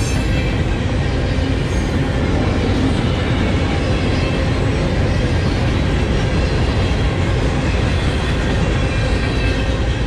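Steel wheels of Norfolk Southern gondola cars rolling past close by on jointed track: a steady, loud rumble and rattle with faint high squealing tones from the wheels on the rails.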